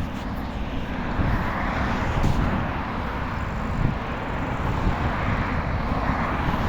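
Steady rush of wind and road traffic heard from a moving bicycle, with wind buffeting the microphone in an uneven low rumble.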